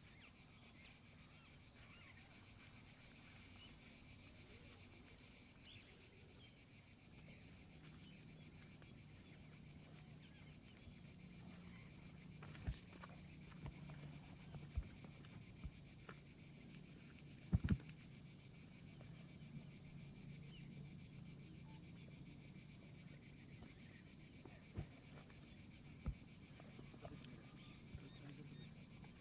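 Steady high-pitched insect chorus, with a few short sharp knocks scattered through it, the loudest a quick double knock about two-thirds of the way through.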